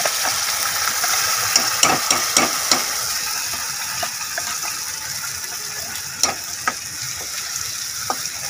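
Ground spice paste sizzling in hot oil and fried onions in a kadhai, as a steel spoon knocks and scrapes against the pan while stirring. The steady sizzle eases slightly after the first few seconds.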